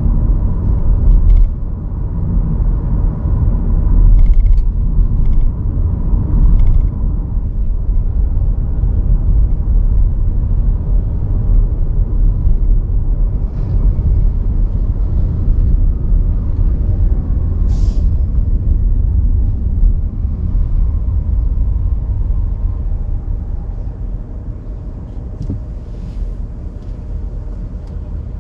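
A car driving: a steady low rumble of road, engine and wind noise that eases off somewhat over the last few seconds, with a few faint brief higher noises from passing traffic.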